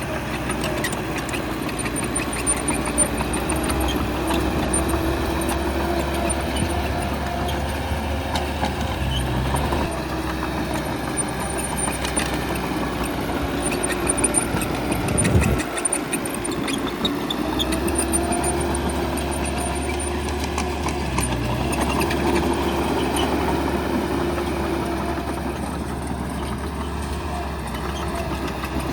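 Bulldozer's diesel engine running steadily while working, with scattered clanks, and a brief drop in the low rumble about halfway through.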